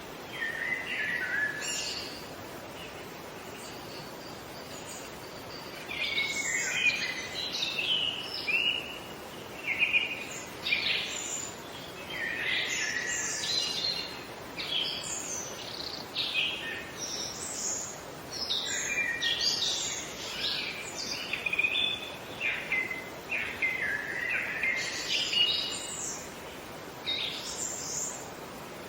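Songbird song in quick, jumbled, warbling phrases over a steady background hiss; one short phrase near the start, then almost continuous singing from about six seconds in.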